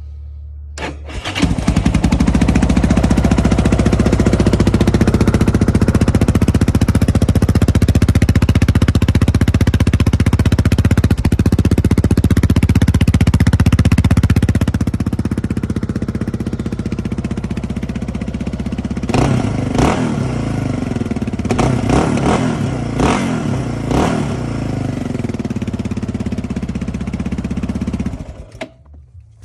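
Yamaha Raptor 660R's single-cylinder four-stroke engine through a Lexx aftermarket exhaust with its core (baffle) installed: started about a second in, running at a fast, loud idle, then settling lower about halfway, blipped about five times in quick succession, then shut off near the end.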